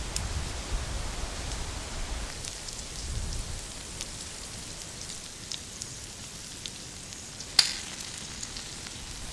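Chicken hearts sizzling on a hot flat stone: a steady frying hiss with small scattered crackles and one sharp pop about three-quarters of the way through. A low rumble sits under it for the first two seconds.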